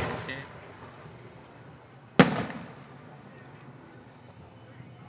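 Aerial firework shells bursting close by: the dying tail of one bang at the start, then a second loud bang about two seconds in that trails off over about a second. Crickets chirp steadily underneath.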